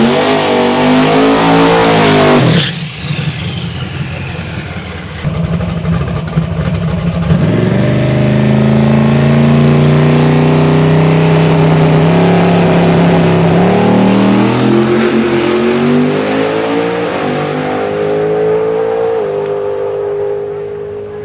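Twin-turbo drag racing Corvette running hard down the strip, its engine pitch climbing. About two and a half seconds in it passes close by with a sharp drop in pitch. Engine sound climbs again from about seven seconds in and fades near the end.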